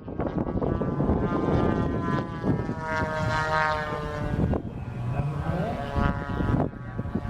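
Radio-controlled model aircraft flying past: a whining motor sound made of several tones together, swelling about three seconds in and sliding slightly down in pitch as it passes, over a low rumbling haze.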